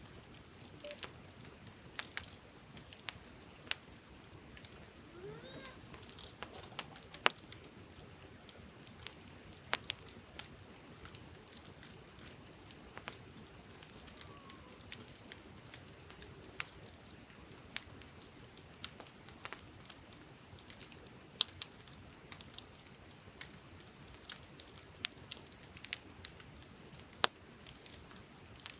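Wood campfire crackling: irregular sharp pops and snaps, several a second, a few of them much louder than the rest.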